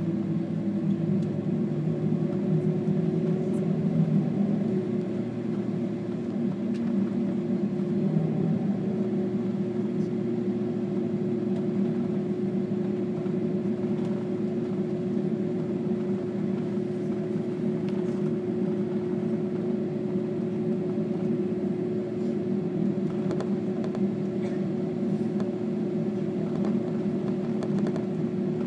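Jet airliner cabin noise while taxiing after landing: a steady drone from the engines at idle, with a held tone over a low rumble. The tone steps up slightly about eight seconds in.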